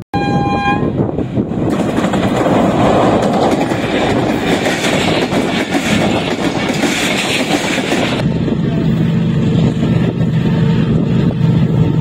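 Passenger train running past over a steel girder bridge, its coaches making a loud, steady rail noise. About eight seconds in this gives way to the steady hum of a diesel-electric locomotive hauling a freight train toward the bridge.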